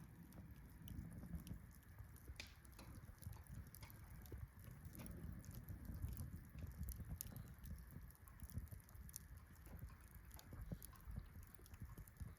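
Faint wood campfire crackling: irregular small pops and snaps over a low steady rumble.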